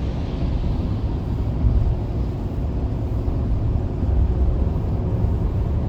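Steady low rumble of a car on the move, heard from inside the cabin: engine and tyres on the road.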